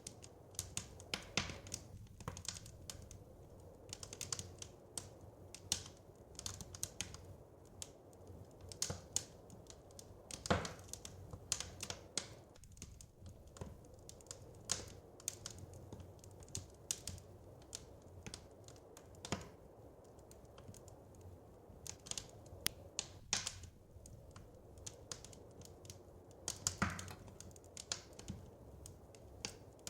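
Wood fire crackling in a fireplace: irregular snaps and pops, a few louder than the rest, over a low steady rumble.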